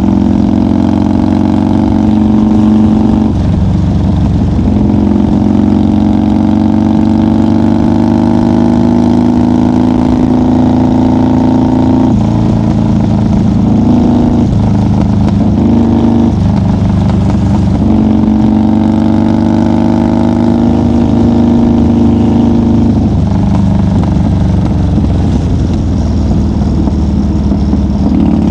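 1990 Harley-Davidson FXR's Evolution V-twin engine running at highway cruise, a steady note with several brief shifts in pitch as the throttle eases off and comes back on.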